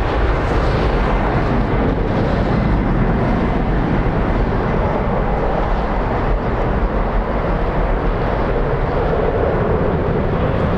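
Jet airliner engines running at high power, a loud, steady rumbling roar with no break.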